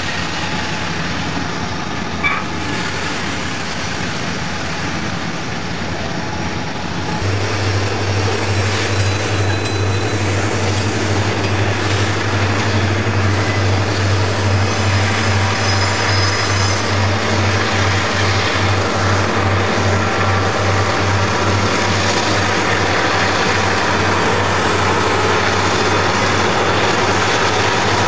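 Southern Pacific freight train rolling past with steady wheel and rail noise. About seven seconds in, a diesel locomotive's engine comes close as a loud low drone that pulses evenly and carries on over the train noise.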